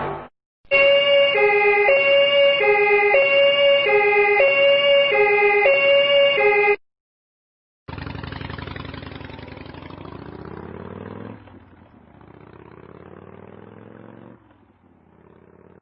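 Two-tone emergency siren alternating between a high and a low note about every half second for some six seconds, then stopping abruptly. After a short silence comes a noisier engine-like sound rising in pitch, which grows fainter in steps and cuts off.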